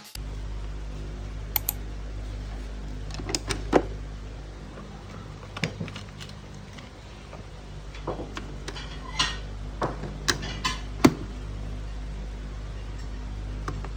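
Steady low electrical hum with scattered light clicks and knocks, a dozen or so, the sharpest about four seconds in and again near eleven seconds: small objects being handled.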